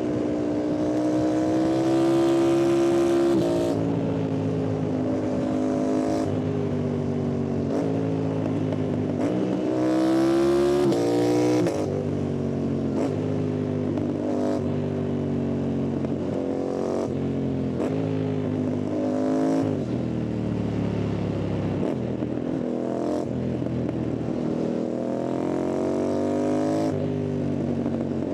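Yamaha MT-07's parallel-twin engine and exhaust, heard from the rider's seat, accelerating hard through the gears. The pitch climbs and then drops back at each gear change, many times over, with a lower stretch about two-thirds in before it climbs again.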